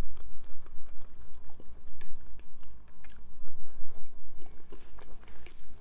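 Close-miked chewing of a juicy peach slice: wet mouth clicks and smacks coming quickly and irregularly.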